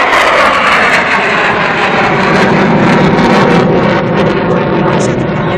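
Loud jet noise from an F-16 fighter flying its display, a steady dense roar that eases off slightly near the end.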